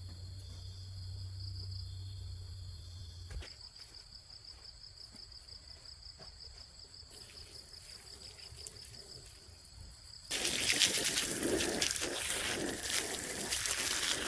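Insects trilling in a steady, pulsing high chirr, with a low hum under it that cuts off about three seconds in. About ten seconds in, a much louder rushing, splashing noise starts abruptly and becomes the loudest sound.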